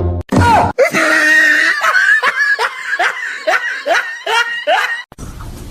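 A person laughing hard in a quick run of short, falling bursts, about three a second, which stops abruptly near the end.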